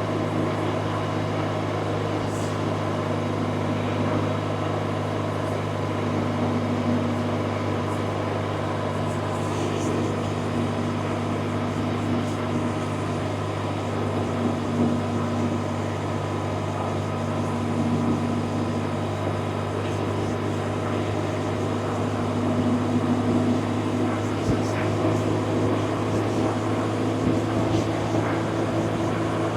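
BMW R1100RT's air/oil-cooled boxer twin engine running steadily under way, with an even haze of wind and road noise over a low, steady engine note.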